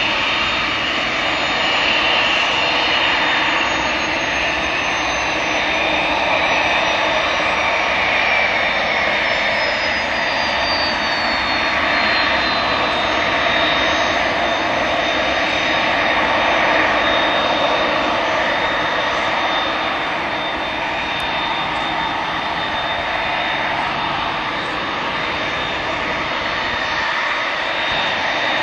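Cessna CitationJet CJ2's twin Williams FJ44 turbofan engines running, a steady jet rush under a high whine that falls in pitch over several seconds and then holds steady.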